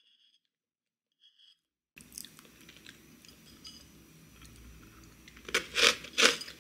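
Near silence, then close-up chewing of crunchy granola, with three loud crunches in quick succession near the end.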